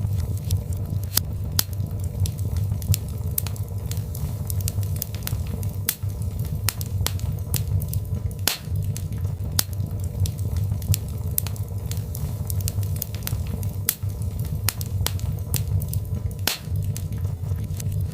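Birchwood fire burning in a fireplace: frequent irregular sharp crackles and pops over a steady low rumble of the flames.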